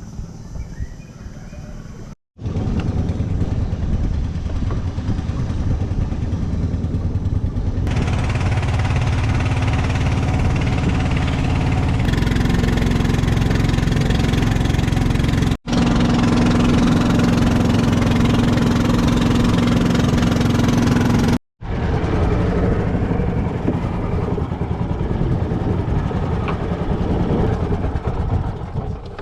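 Boat engine running steadily under way, heard as a loud low drone mixed with rushing wind and water, in several clips joined by abrupt cuts.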